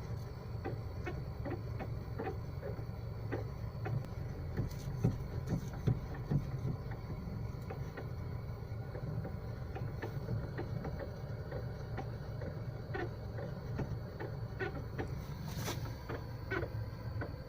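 Mazda Demio DY3W steering creaking in many short, irregular squeaks as the steering wheel is rocked back and forth, over a steady low hum. The cause of the creak is unknown to the owner.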